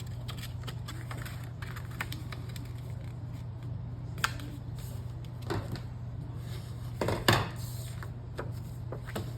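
Scattered light taps, clicks and rustles of paper and cardstock being handled, scored and folded on a desk, over a steady low hum. The loudest knock comes about seven seconds in.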